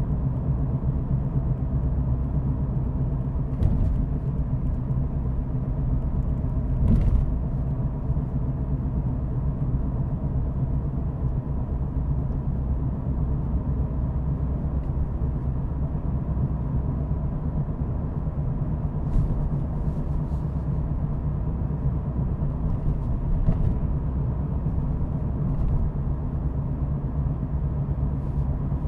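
Car driving along at a steady pace: a continuous low rumble of engine and tyres on the road, with a few brief knocks scattered through it.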